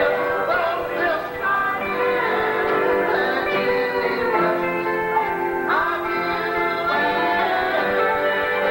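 Gospel singing: voices singing over instrumental accompaniment.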